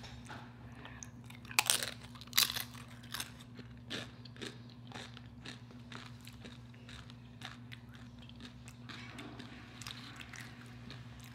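A tortilla chip loaded with cheese dip being bitten and chewed close to the microphone. Two loud crunches come about two seconds in, then smaller crunches that fade into quieter chewing, over a steady low hum.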